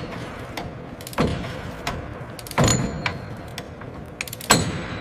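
A series of sharp metallic clanks and knocks at uneven intervals, with two louder hits, about midway and near the end, that ring briefly: metal parts and tools being handled and knocked together as a lowered component is fastened in place.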